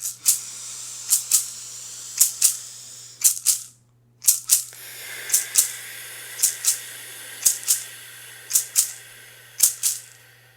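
A rattle or shaker played in a steady rhythm, two quick shakes about once a second, over a low steady hum. It stops briefly near the four-second mark, then picks up again.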